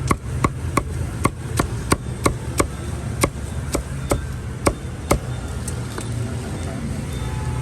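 Cleaver chopping through roast duck on a chopping board: about a dozen sharp chops, roughly three a second, stopping about five seconds in. A steady low traffic hum runs underneath.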